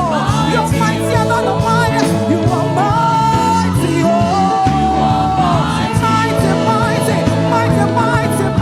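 Live gospel praise-and-worship band playing with a steady drum beat and bass, with long held melody notes that slide from one pitch to the next.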